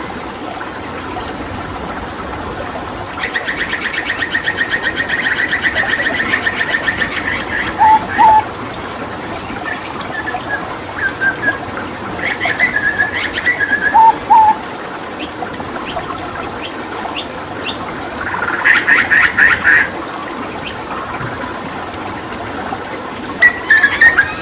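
Hooded butcherbird calling in separate bursts over a steady rush of running water. There is a long, fast rattling series of notes about three seconds in, short whistled double notes, a few sharp clicks, and another fast series about two-thirds of the way through.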